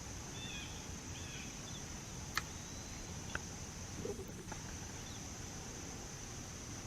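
Faint outdoor ambience: a steady high insect drone with a few short bird chirps in the first second. Two sharp clicks follow, then a brief low call about four seconds in.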